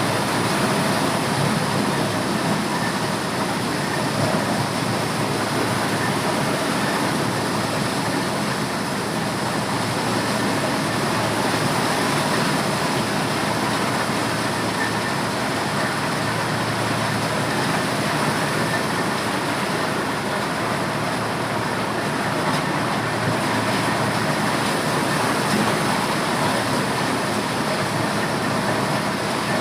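Motorised corn sheller running steadily: a constant loud mechanical din that does not change.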